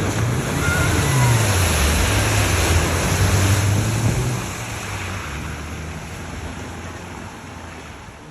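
A car's engine pulling through deep floodwater, its pitch rising and falling, with a loud rush of water spray and wash. Both are loudest for the first four seconds or so, then fade as the car moves away.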